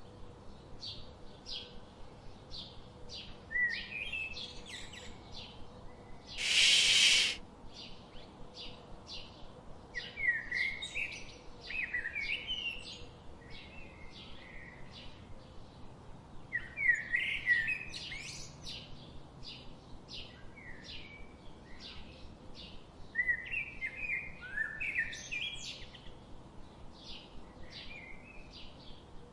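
Birds chirping and calling in many quick, short repeated notes, some sliding up and down in pitch. About seven seconds in, a loud rush of hiss-like noise lasts about a second.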